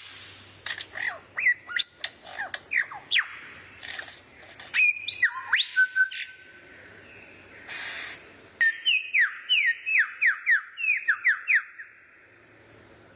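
A songbird singing a varied run of sharp whistled notes that sweep up and down. About eight seconds in comes a short harsh, buzzy note, followed by a fast series of about a dozen falling whistles, roughly four a second.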